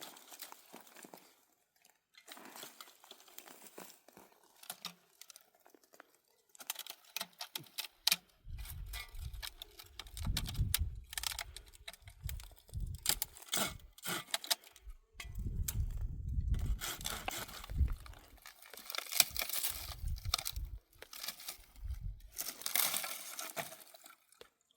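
Dry brush and twigs being snapped and handled, with irregular crackling and rustling. Through the middle there is heavy low rumbling.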